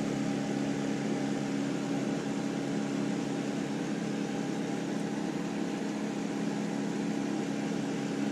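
A steady machine hum with hiss, holding a few low pitches without change, like a fan or similar motor running.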